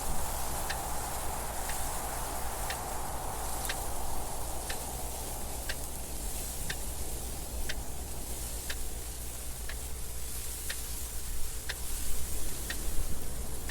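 Clock ticking steadily about once a second over a constant wind noise.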